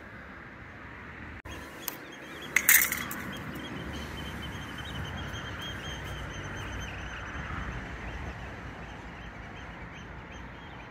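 Birds calling outdoors over a steady background of ambient noise, with one short, louder, sharp sound about two and a half seconds in.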